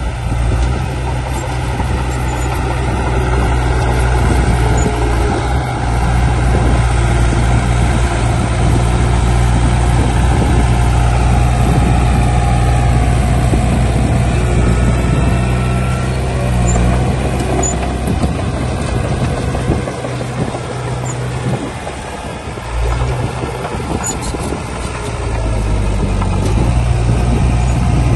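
Heavy diesel engine of earth-moving machinery running steadily under load. The engine note drops for a few seconds about three-quarters of the way in, then picks up again.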